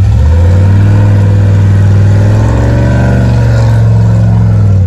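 Off-road vehicle's engine revving hard under load, its pitch rising and falling as the throttle is worked.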